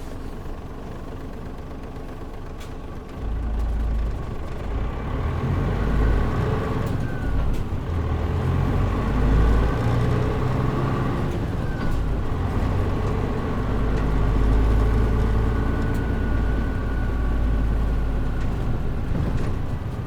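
Mitsubishi Fuso KL-MP37JM city bus's diesel engine, heard from inside the cabin: idling for about three seconds, then pulling away under load and climbing in pitch, dropping and climbing again as it shifts through the gears.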